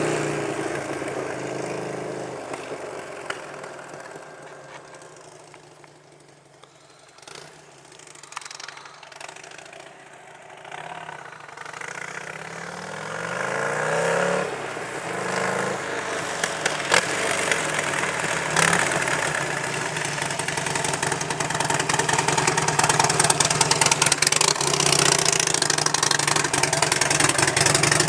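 Buell XB12 V-twin with a straight-pipe exhaust, no resonators, running with rising and falling revs. It fades away over the first few seconds to a low level, then grows louder again from about twelve seconds in and stays loud to the end.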